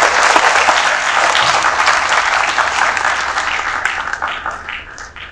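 Audience applauding: many hands clapping at once, loud at first and tapering off over the last second or two as the clapping dies out.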